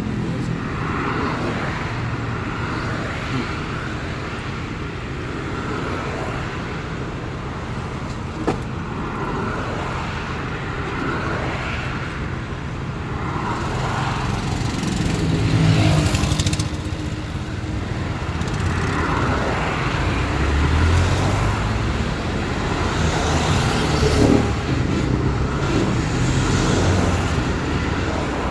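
Road traffic on a city avenue: cars and other motor vehicles running and passing, swelling louder about halfway through. A short sharp click sounds about eight seconds in and another near 24 seconds.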